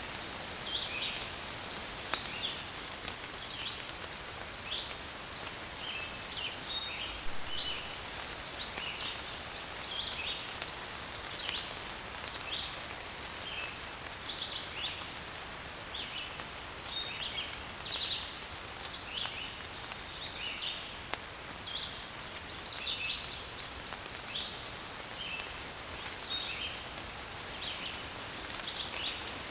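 Forest ambience: many short high chirps from birds, several a second, over a steady soft hiss.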